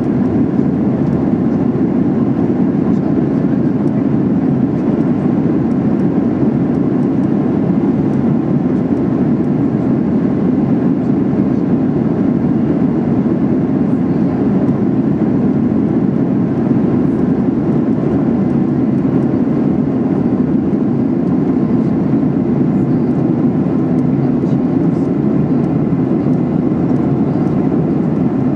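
Steady cabin drone of a Boeing 737-800 in flight, its CFM56-7B turbofans and the airflow making an even, unbroken noise heard inside the cabin.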